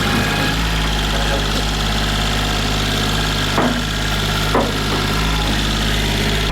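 Tractor engine running steadily at raised throttle while carrying a heavy truck bed, with two short, sharper sounds over it about three and a half and four and a half seconds in.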